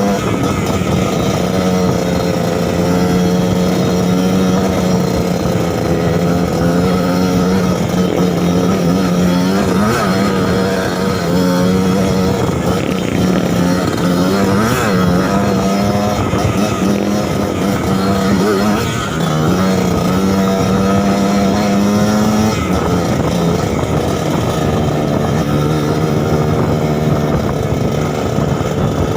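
Suzuki TS 125 two-stroke trail motorcycle engine running continuously under steady throttle, its pitch shifting slightly with the throttle and dropping a little about three-quarters of the way through.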